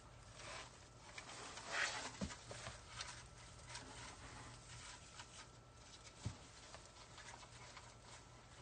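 Faint rustling and handling noises of wreath materials being worked by hand, with two soft low knocks, one about two seconds in and one later, over a steady low hum.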